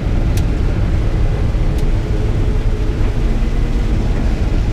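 Combine harvester running steadily while cutting soybeans: a constant loud low drone, with a couple of faint ticks.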